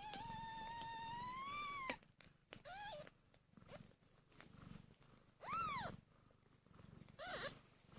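Newborn sphynx kittens mewing in thin, high cries: one long drawn-out cry, then three short ones, the loudest rising and falling in pitch. Under them runs the mother cat's low purring while they nurse.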